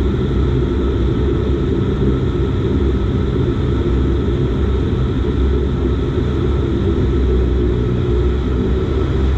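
Steady drone of a Dash 8 Q400's Pratt & Whitney PW150A turboprop engines and six-bladed propellers in flight: a deep, even rumble with a few steady tones above it.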